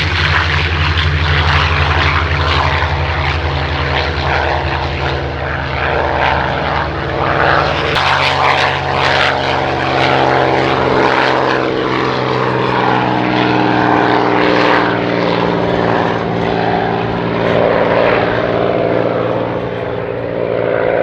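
Piston engines of WWII fighters running at power: the Merlin V12s of P-51D Mustangs and the Pratt & Whitney R-2800 radial of a P-47 Thunderbolt. A deep steady drone gives way about eight seconds in to a higher engine note that shifts in pitch.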